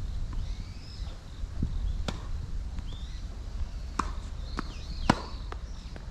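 Tennis rally on a hard court: sharp pops of the ball struck by rackets and bouncing, a second or two apart, the loudest about five seconds in, with wind rumbling on the microphone and brief high squeaks between the hits.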